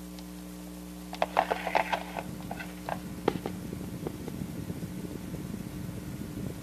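Electric fan humming, with a burst of clicks and knocks about a second in, after which it runs on with an irregular rattle.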